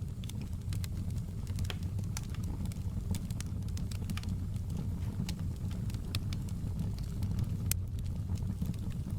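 Fireplace fire crackling: irregular sharp snaps and pops over a steady low rumble.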